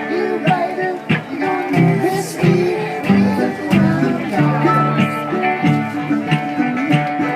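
Live acoustic band playing an instrumental passage: plucked guitar and mandolin over hand-drum percussion on congas, with a steady beat.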